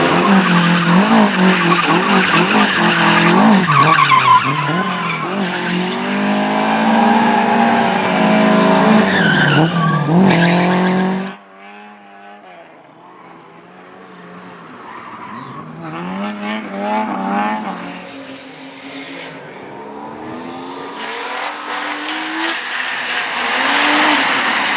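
Race car engine revving hard, its pitch rising and falling sharply through gear changes and lifts, with tyre squeal. About eleven seconds in it cuts off abruptly to another car, fainter at first and growing louder as it approaches.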